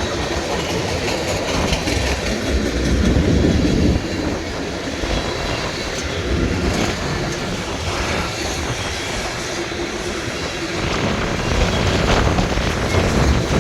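Freight train cars rolling past on the rails.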